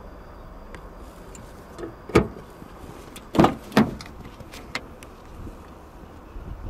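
Sharp plastic clicks and knocks from handling the fuel filler flap and cap: one loud click about two seconds in, then two more close together a second later, with a few light ticks around them.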